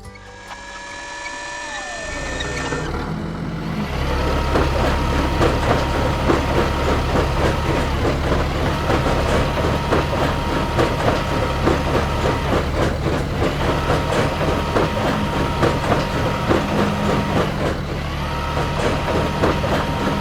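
Heavy truck engine running steadily, with a whining tone that holds for a few seconds, drops away and comes back several times. It starts about three seconds in, after a fading sound that glides down in pitch.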